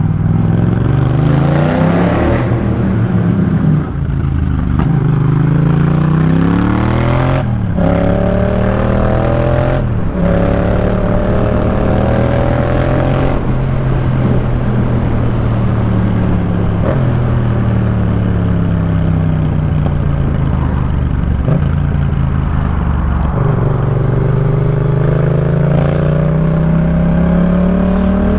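Yamaha MT-07 parallel-twin engine through a Jeskap K4 full exhaust, accelerating hard up through the gears with the pitch climbing and dropping briefly at each of several shifts. It then rolls off and decelerates with falling pitch, and pulls up through the revs again near the end.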